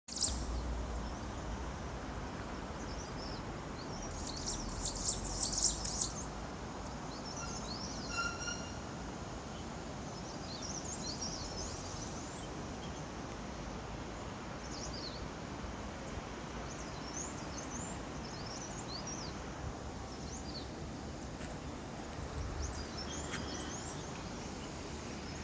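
Several birds chirping and calling over a steady hiss of outdoor background noise, with a dense flurry of chirps about four to six seconds in.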